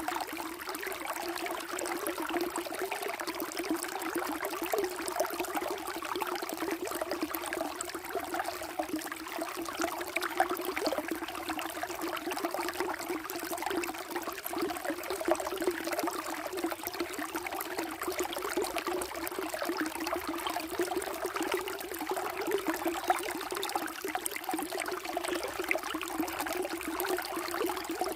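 Flowing water running steadily, a continuous splashing trickle with no break or change.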